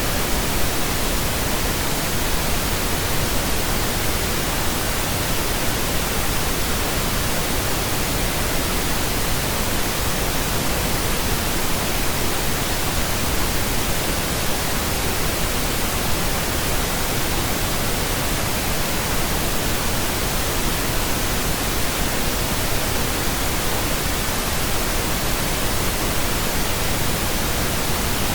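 Steady pink noise: an even, unchanging hiss spread across the whole range from deep rumble to high hiss, with no tones or events in it.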